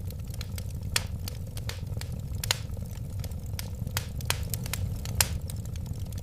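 Wood fire crackling, with sharp pops every second or so over a steady low rumble.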